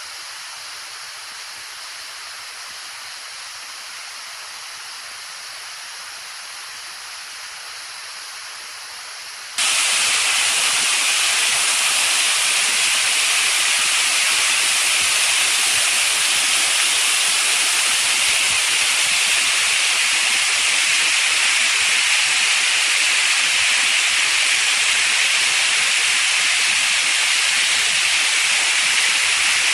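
Steady rushing hiss of a waterfall. About ten seconds in it jumps suddenly much louder and brighter, then holds steady.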